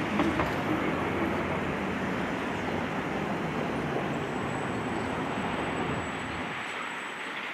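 Road traffic noise, a steady rush of passing vehicles, with a few light knocks just after the start; the low rumble eases off near the end.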